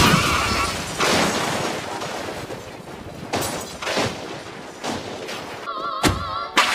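Cartoon car-crash sound effects: a run of loud, sudden impacts with crunching and shattering, several seconds apart. Near the end comes a wavering tone and a sharp crack.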